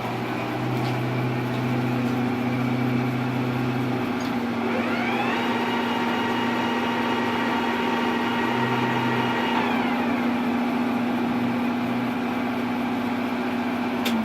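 C11MB metal lathe running with a steady machine hum. About four and a half seconds in, a whine rises in pitch, holds for about five seconds, then falls away; this is the strange noise the lathe is making. A sharp click comes at the very end.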